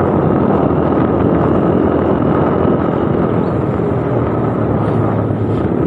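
Motorcycle engine and exhaust running steadily while riding, with wind rushing over the microphone.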